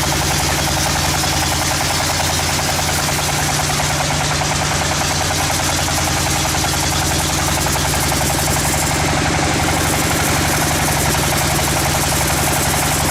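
Sawmill machinery running steadily: a constant low engine-like drone under a loud, even hiss.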